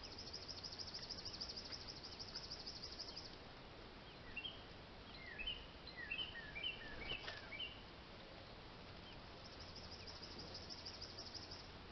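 A fast, pulsing high-pitched insect trill, heard at the start and again near the end, with a run of about a dozen short, quick, falling bird chirps in the middle, over faint low background noise.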